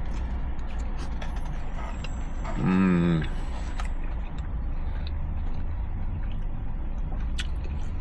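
A man gives one short hummed "mmm" of approval with his mouth full, about three seconds in, over the steady low rumble of the car. Small clicks are scattered through.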